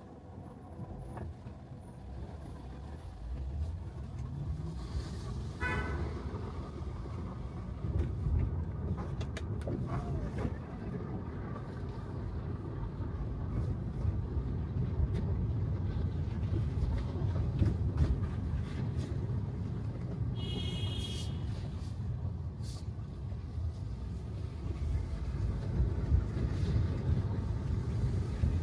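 Steady rumble of an electric car's tyres on wet road, growing louder from a few seconds in as the car picks up speed. Two brief high-pitched tones break through, one about six seconds in and another around twenty-one seconds in.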